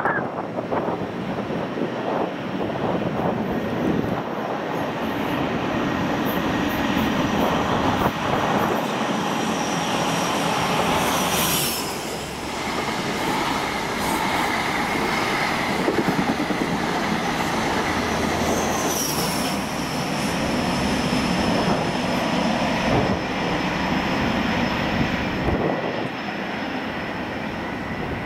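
A train running past on the main line, a steady loud rumble of wheels on rail throughout, with a thin high squeal above it and two brief high-pitched squeals falling in pitch, about eleven and nineteen seconds in.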